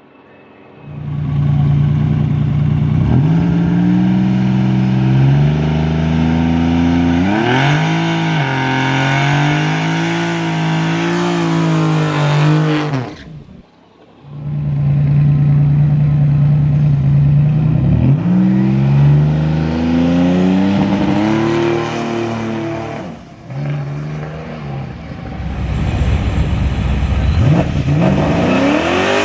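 Twin-turbo Dodge Demon's V8 idling and being revved up and down several times. The sound cuts off suddenly about 13 seconds in, returns a second later, and is revved again, rising near the end.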